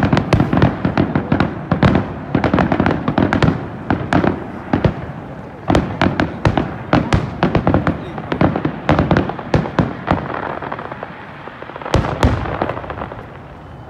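Finale barrage of a fireworks display: a dense, continuous run of aerial shell bursts and crackling stars, with one heavier bang about twelve seconds in, thinning out near the end.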